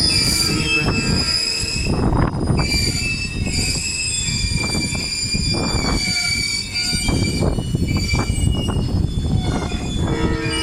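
Train wheels squealing against the rails: several high, steady squealing tones held over the heavy rumble of the moving train.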